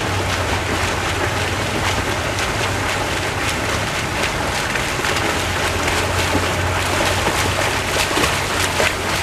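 Swimmers splashing through the water during a swimming race, a constant rush of churned water with repeated sharp splashes, over a steady low hum.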